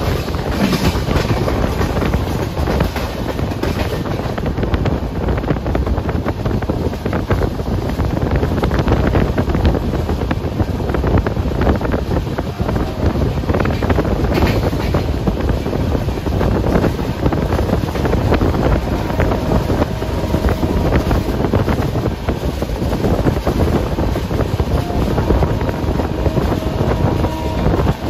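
Express passenger train running at speed, heard from on board: a steady rumble of wheels on rail mixed with strong wind rushing over the microphone.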